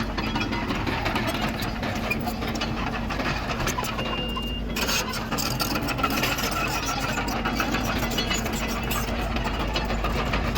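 Crawler bulldozer's diesel engine running steadily, with rapid clanking and rattling throughout. A single short high beep sounds about four seconds in.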